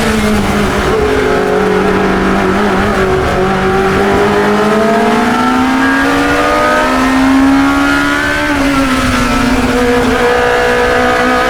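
1972 Chevron B21 2-litre sports racer engine at racing speed, heard onboard. The engine note climbs steadily for several seconds, falls off about eight seconds in as the driver comes off the throttle, then holds steady.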